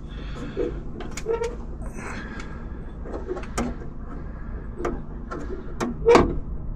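Scattered light clicks and taps of small metal parts and hand tools being handled, with a short faint scrape about two seconds in.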